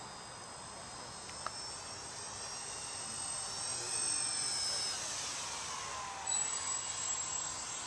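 Twin electric motors and propellers of a Dynam Cessna 310 RC scale model whining as it flies past. The sound grows louder toward the middle, then the pitch slides down as it passes.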